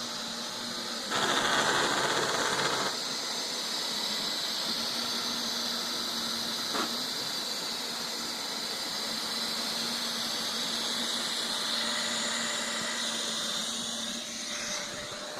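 Neato robot vacuum running with a steady high whine and a grinding noise, louder for a couple of seconds about a second in, with a single click about seven seconds in. The grinding is a fault that is still there after the machine came back from repair.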